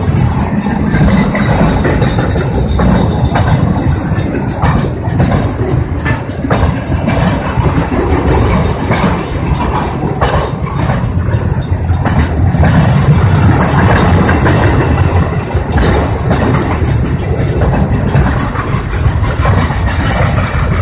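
Freight train rolling past, its cars running steadily and loudly on the rails.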